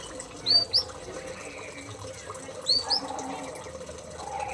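Small aviary birds chirping: two quick pairs of sharp, high chirps, the second pair about two seconds after the first.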